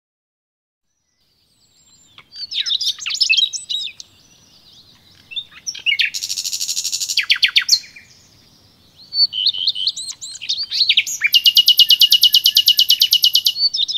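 A bird singing, with high chirps and warbled phrases. There is a quick buzzy trill around six seconds and a long, fast, even trill from about eleven seconds to nearly fourteen.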